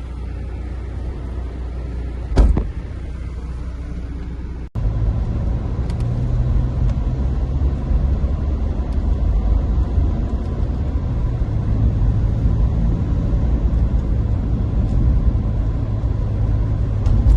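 Steady low rumble of a moving vehicle heard from inside, with a sharp knock about two and a half seconds in. It cuts suddenly about five seconds in to a louder, rougher rumble.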